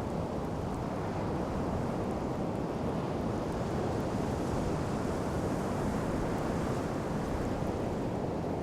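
Sea surf washing onto a sandy beach, a steady rush that swells a little midway.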